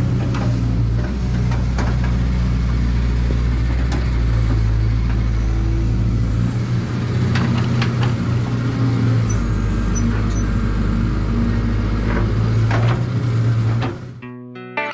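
Caterpillar excavator's diesel engine running steadily, with scattered knocks and clanks from the machine at work. The sound cuts off near the end and electric guitar music begins.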